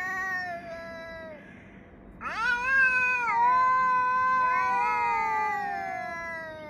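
Two cats yowling at each other in long, drawn-out, wavering calls. One yowl fades out about a second in. A long loud yowl starts after about two seconds, and the second cat's yowl overlaps it in the second half.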